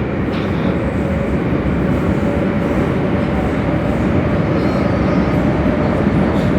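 Prague metro line A train running through the tunnel between stations: a steady, loud rumble with a faint steady whine.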